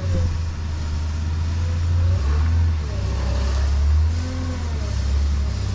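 A vehicle engine running with a low, steady rumble that rises and falls in level a few times, with faint gliding whines above it.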